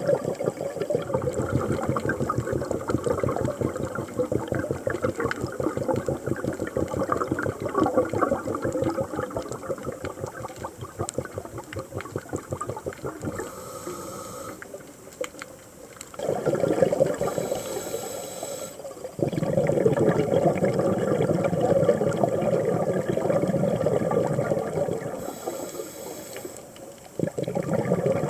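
Underwater bubbling from a scuba diver's exhaled air, in long stretches broken by short lulls.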